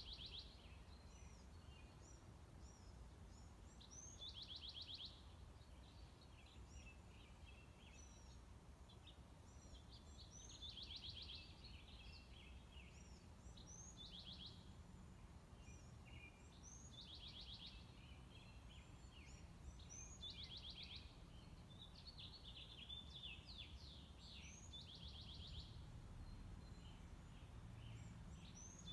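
Faint songbird singing: a fast trill about a second long, repeated every few seconds, with scattered chirps between, over a low background rumble.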